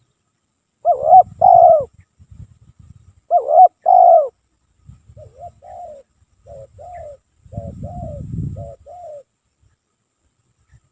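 Spotted dove cooing: two loud double-note coos, then a run of softer, shorter coos, with a low rumble underneath.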